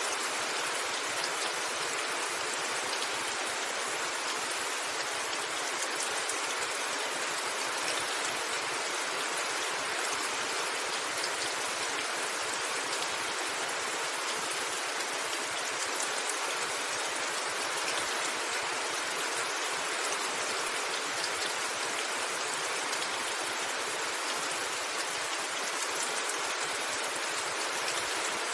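Steady rain falling on a rooftop: an even hiss with faint ticks of individual drops.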